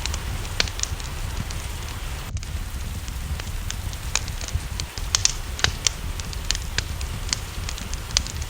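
Wood fire crackling, with irregular sharp pops over a steady low rumble, and a soft, even hiss of rain behind it.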